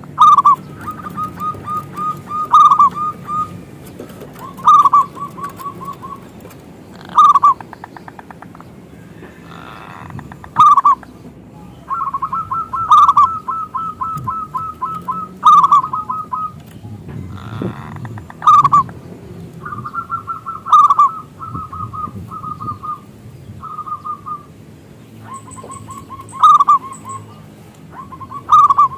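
Zebra dove (perkutut) singing its cooing song over and over. Each song is a loud opening note followed by a fast run of short purring notes, repeated every two to three seconds.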